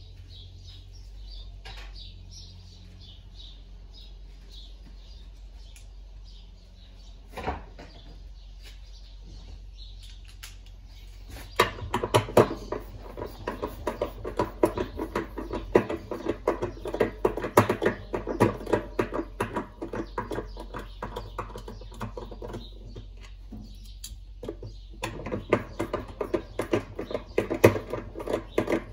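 Hand work on a washing machine's mechanical parts during disassembly: rapid clicking and rattling of tools and metal parts. It comes in two long stretches, the first starting about a third of the way in and the second near the end, over a low steady hum.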